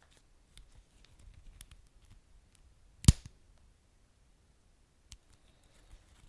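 Wood fire crackling: sparse small crackles with one sharp loud pop about three seconds in, over a faint low rumble.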